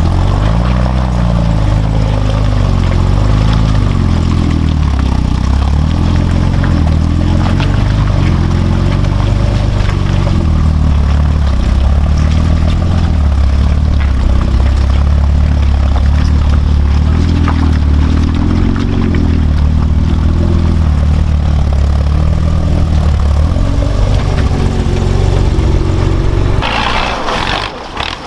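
Off-road truck engine running hard under load, its pitch rising and falling, with a short break near the end.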